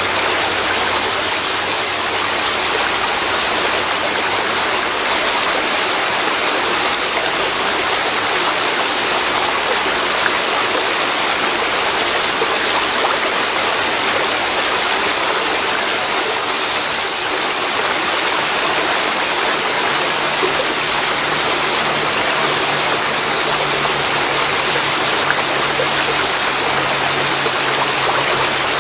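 A waterfall pouring into a river, a steady, loud rush of falling and flowing water.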